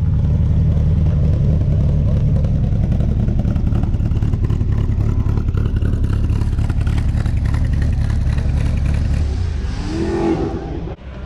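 A car's loud exhaust rumbling steadily at a low pitch. Near the end the rumble eases, a short higher sound rises, and the sound cuts off abruptly.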